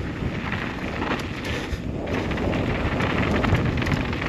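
Downhill mountain bike rolling down a dirt trail: a steady rush of tyre noise on dirt and rock with many small clicks and rattles, mixed with wind noise on the microphone, growing louder as speed builds.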